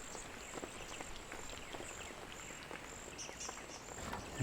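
Faint outdoor ambience: a high, thin insect trill repeating in short pulses, with scattered light ticks.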